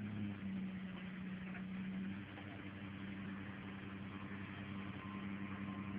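2002 Ford Ranger 4x4 pickup's engine running with a steady, even drone.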